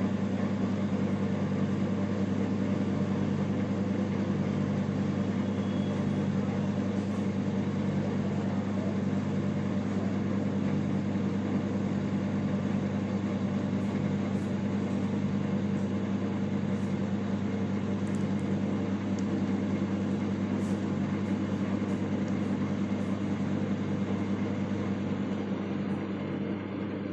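IFB 30BRC2 convection microwave oven running with a steady electrical hum, easing off near the end.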